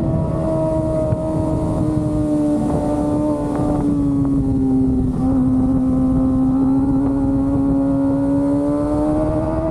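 Kawasaki ZX-25R's 250 cc inline-four engine running at high revs on the move, its note easing down a little through the middle and climbing again near the end, over steady wind and road rush.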